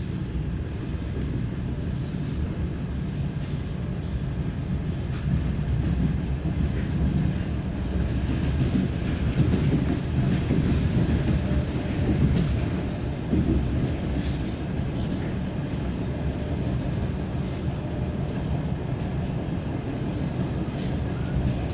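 DR1A diesel multiple unit under way: a steady low rumble of the train running.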